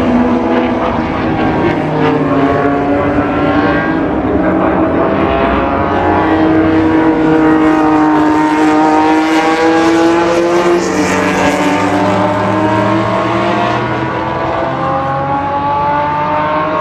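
Several historic racing cars' engines running hard, overlapping as the cars accelerate and go by, their pitch rising and falling.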